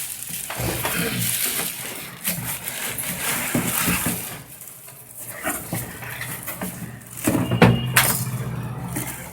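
Rustling and knocking as packaging and plastic parts of a wet-and-dry vacuum cleaner are handled during unboxing, loudest near the end.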